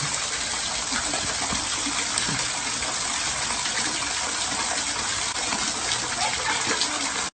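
Floodwater rushing in a steady, even gush.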